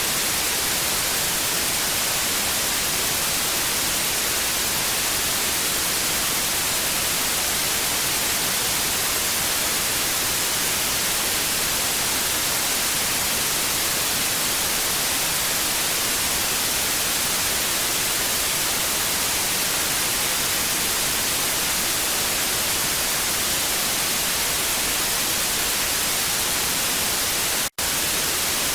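Steady hiss of television static, brighter and stronger in the high frequencies, broken by a momentary silent gap near the end.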